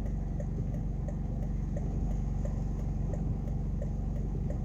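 Car engine idling, heard from inside the cabin, with the hazard-light flasher ticking steadily about two to three times a second.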